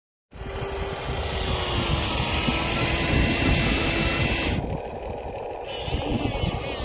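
Electric motors and gearboxes of Huina radio-controlled toy construction trucks running, a steady whine over grinding gear noise; the hiss cuts off abruptly about two-thirds of the way through.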